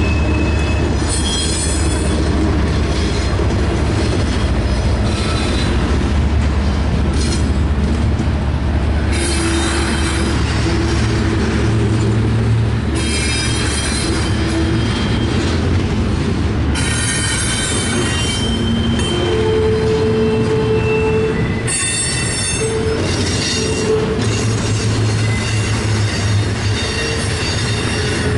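CSX double-stack intermodal train rolling past, a steady heavy rumble of wheels on rail. Wheel flanges squeal on and off every few seconds as the cars take the curve off the wye.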